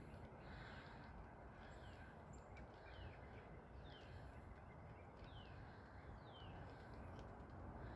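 Faint bird calls: a run of about five quick down-slurred notes, spaced less than a second apart, over a low steady background noise.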